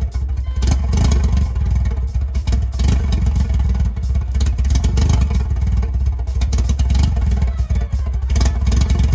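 Mitsubishi Evo X's turbocharged four-cylinder engine running loud and steady, with many irregular sharp pops and crackles, its tank almost out of fuel.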